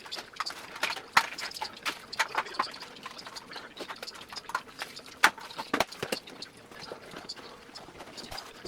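Olympia Splendid 33 manual typewriter being typed on: a quick, irregular run of type bars striking the platen, several clicks a second, with a couple of harder strikes about a second in and about five seconds in.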